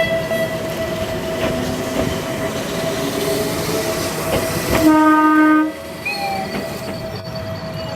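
Electric locomotive horn sounding one short blast about five seconds in, over the steady hum and rumble of a train.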